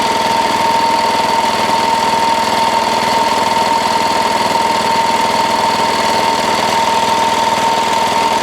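Small pull-start diesel engine of a 1967 Wheel Horse 1067 garden tractor idling steadily after a freezing cold start, still warming up, with a steady high-pitched tone running over it.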